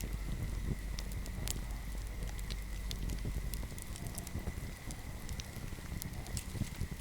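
Wood fire crackling, with scattered sharp pops and snaps over a low rumble.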